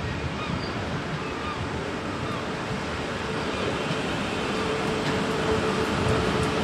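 Electric multiple-unit passenger train running on the tracks below: a steady rumble, with a steady humming tone joining about four and a half seconds in as the sound grows louder.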